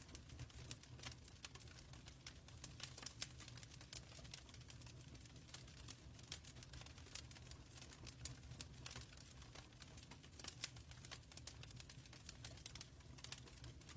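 Wood fire crackling in a fireplace: irregular small snaps and a few sharper pops over a soft low rumble of the burning fire.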